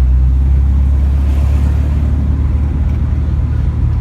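A car's engine running, a steady low rumble.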